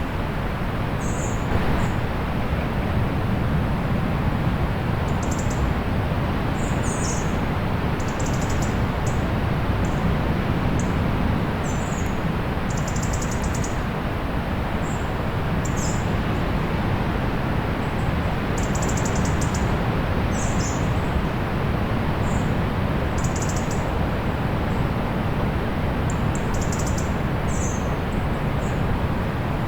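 Small birds chirping: short, high calls every second or two, some in quick little clusters, over a steady rushing wash of distant sea.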